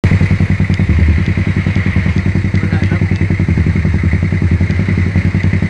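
Motorcycle engine running steadily at low revs with an even, rapid putter.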